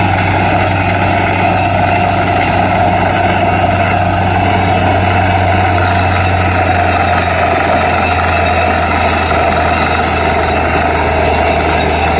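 Borewell drilling rig's engine running steadily, a constant low drone with no breaks.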